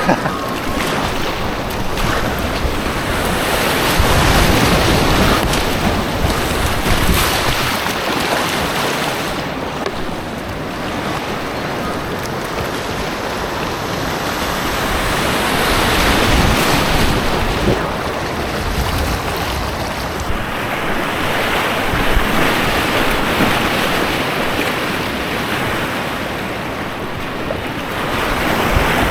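Loud rushing white water on an artificial white-water kayak course, a continuous roar of spray and current that swells and eases every few seconds.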